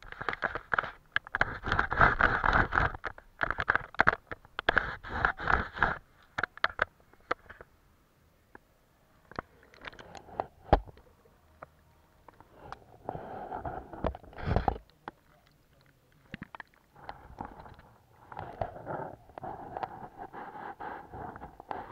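Painting strokes scratching and scraping on paper, with sharp little clicks. The strokes are dense and quick for the first six seconds, thin out to scattered taps, then come back in short bursts.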